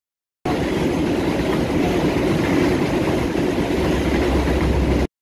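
Passenger train carriages passing close by at speed: a loud, steady rush and rumble of wheels on the rails. It starts suddenly about half a second in and cuts off just as suddenly near the end.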